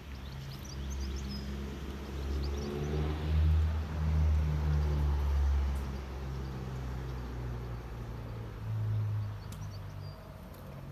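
Car engine running, rising in pitch as it revs about two to three seconds in, then settling back. Birds chirp faintly above it.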